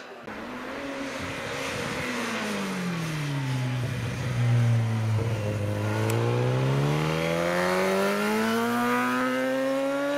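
A racing superbike's engine on a hill-climb course: its note drops for a couple of seconds as it slows, then climbs steadily and smoothly for the second half as the bike accelerates hard.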